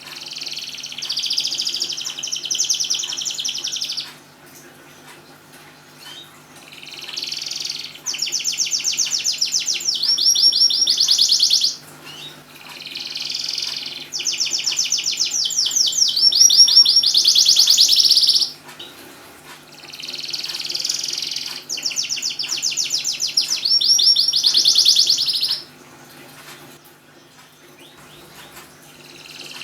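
Domestic canary singing in long, high phrases of rapid rolling trills, each lasting four to six seconds, with short pauses between them, about four phrases in all.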